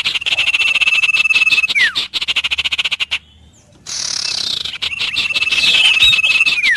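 A rapid, evenly pulsing animal call with a thin steady whistle running through it and a short falling note at its end. It sounds for about three seconds, breaks off briefly, then starts again the same way near the middle.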